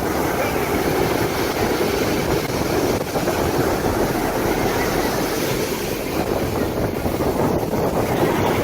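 Strong ocean surf breaking and rushing, with wind buffeting the microphone: a steady noise throughout.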